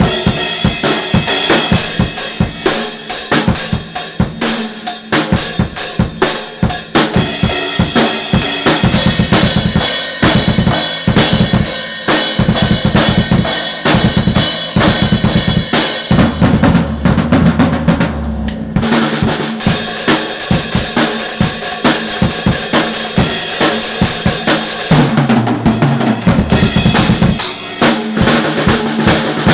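Drum kit played hard and fast, with a dense run of bass drum, snare and cymbal hits.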